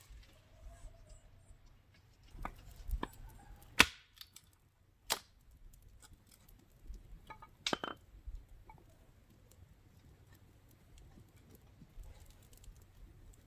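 Several separate sharp clicks and knocks, a second or more apart, with the loudest about four and five seconds in, over a faint low rumble.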